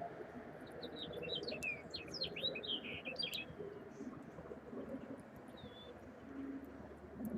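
A songbird giving a quick jumble of chirping notes for about three seconds, then one short note, over a steady low background rumble.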